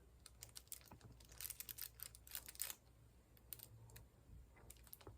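Faint, irregular light clicking and tapping, with a denser run of clicks from about a second and a half to nearly three seconds in: square diamond-painting drills being pressed onto the canvas with a drill pen.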